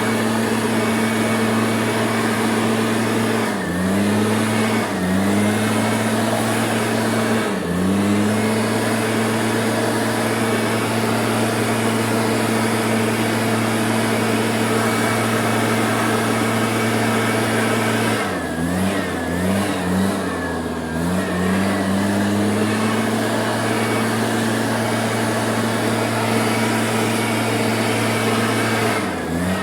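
A motor running steadily at high speed, its pitch dipping briefly and recovering a few times, as if momentarily loaded or let off.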